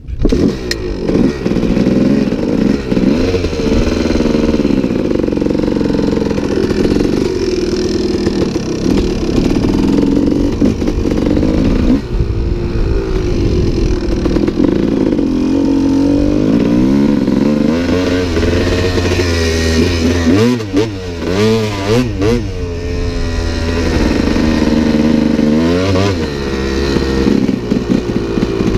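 Dirt bike engine revving hard and easing off over and over as the bike is ridden round a motocross track, its pitch repeatedly climbing and dropping with throttle and gear changes, with a quick run of sharp rises and falls about two-thirds of the way through.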